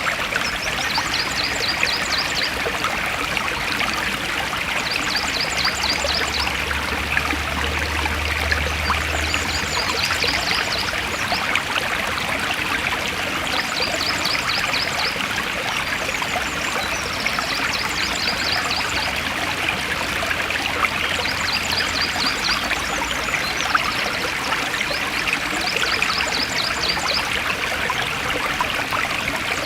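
Stream water flowing steadily. A short, rapid, high-pitched trill repeats about every three seconds over it.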